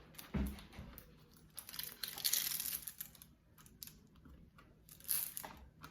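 Clear plastic cover film on a diamond painting canvas crinkling in irregular bursts as it is handled and pulled back from the glued surface, with a soft thump about half a second in.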